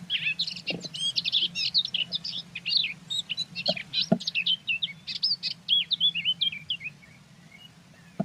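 A small songbird twittering in a fast run of varied high chirps for about seven seconds, then stopping, with a few soft knocks in between.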